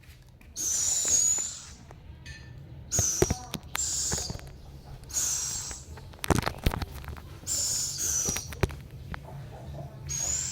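An owl giving repeated hissing screeches, about six calls each under a second long with a thin whistle in them: the food-begging call of a hungry owl.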